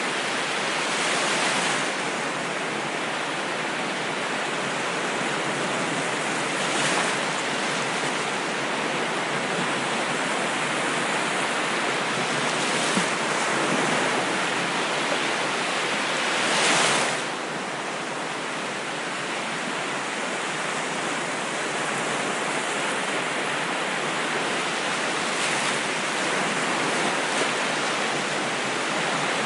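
Ocean surf: a continuous wash of waves, with a stronger wave surging every few seconds, the biggest a little past the middle.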